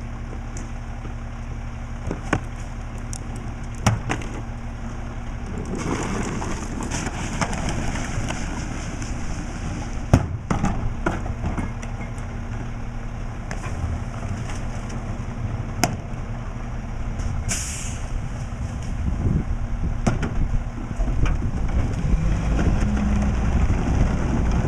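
Mack LE refuse truck running with a steady engine drone, broken by several sharp knocks and a stretch of rattling about a quarter of the way in. A short hiss of air comes about three-quarters of the way through, and the engine grows louder near the end.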